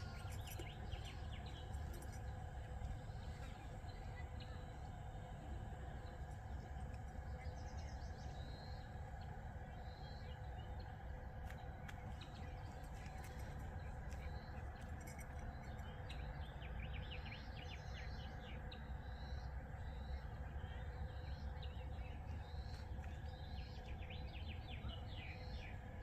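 Birds chirping and calling now and then in short high clusters, over a steady low background rumble.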